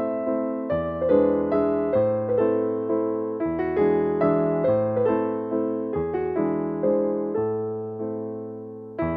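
Background music: soft piano playing slow sustained chords that change every second or two.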